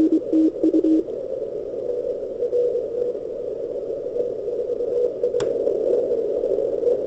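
160-metre amateur radio receiver audio through a narrow CW filter: a Morse code tone keyed on and off for about a second, then steady band noise with a faint Morse signal in it, and one short click near the end. The transmit antenna is detuned at this point, so it does not re-radiate noise into the receive antenna.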